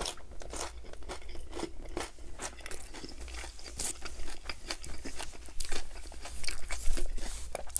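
Close-miked chewing of a mouthful of crunchy chopped salad: a rapid, irregular run of crunches.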